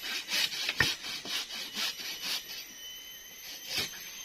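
Wood being sawn by hand: quick back-and-forth strokes, about three a second, that stop about two and a half seconds in, with a single sharp knock near the start and one last stroke near the end.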